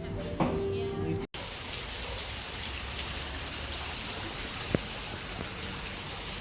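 A steady hiss of falling water, with a single sharp click about three seconds after it begins. It follows about a second of music that stops abruptly at a cut.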